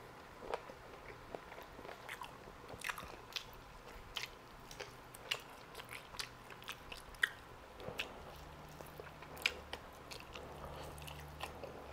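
Close-miked chewing of a roasted chicken drumstick: soft, irregular wet mouth clicks and smacks as the meat is bitten and chewed.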